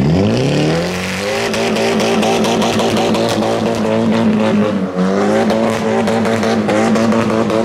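A car engine revving hard. The revs climb quickly at the start and hold high, dip briefly about five seconds in, then fall away near the end.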